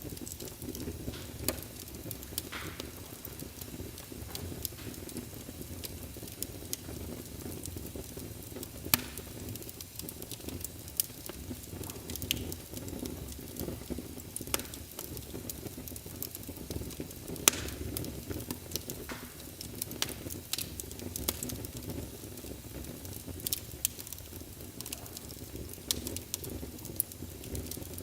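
Wood fire burning in a fireplace: a steady low flame rumble with irregular sharp crackles and pops from the burning logs, a few of them louder.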